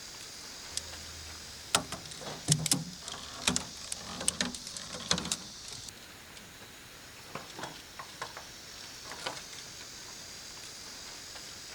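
Irregular sharp clicks and knocks of objects being handled, clustered in the first half and sparser later, over a steady high-pitched hiss.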